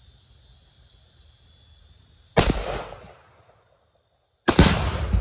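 Two loud bangs about two seconds apart, each dying away over a fraction of a second, the second louder with a deeper rumble: a 5.56 rifle firing at and setting off a 6-pound Tannerite charge packed under a tree stump.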